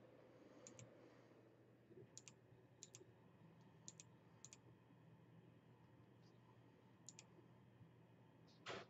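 Faint clicking at a computer: about six quick pairs of clicks, roughly a second apart, over near silence. Just before the end there is a short, louder rush of noise.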